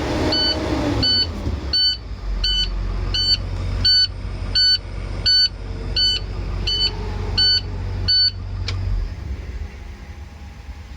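International MaxxForce 7 V8 diesel engine running, its pitch dropping back about a second in, then settling to a steady low rumble that fades near the end. An electronic beeper sounds about every 0.7 s over it until about eight seconds in.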